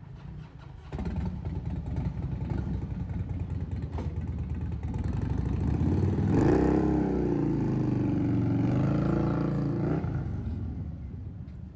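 A vehicle engine running close by, starting suddenly about a second in, its pitch rising and falling as it gets louder toward the middle, then fading near the end.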